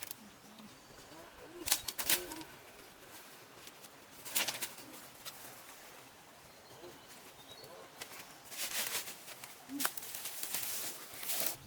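Intermittent rustling and handling noises in short bursts, loudest near the end, over a quiet background.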